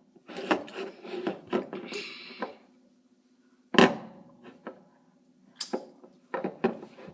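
Scattered knocks and scrapes of things being handled, with one loud knock about four seconds in, over a steady low hum.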